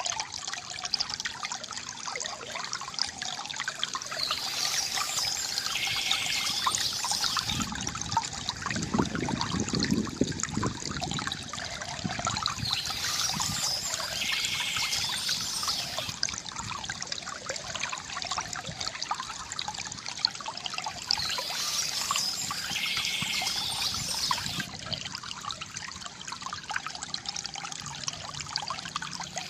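River water gurgling and trickling steadily, with a deeper surge of water about a third of the way in. Small birds chirp softly above it in short spells, three times.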